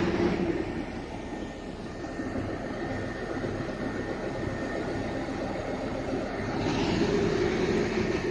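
Steady engine drone with a low hum, growing louder about seven seconds in.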